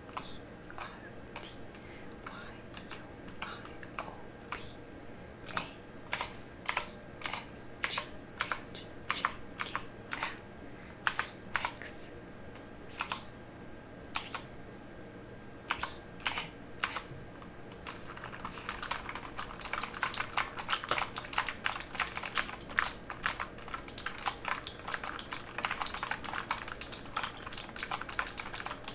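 Mechanical keyboard keys pressed one at a time as slow, separate clicks, then, about two-thirds of the way in, fast continuous typing.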